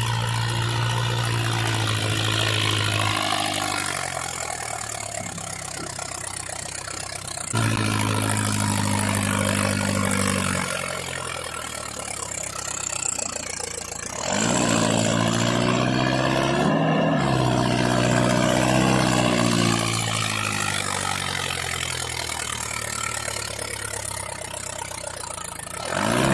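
Tractor engine running with a steady note that several times sinks away and then picks up again abruptly. Around the middle it rises and falls in pitch, like a rev.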